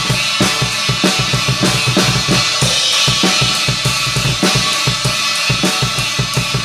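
Loud rock drumming on a drum kit: quick, busy kick and snare hits under a steady wash of cymbals.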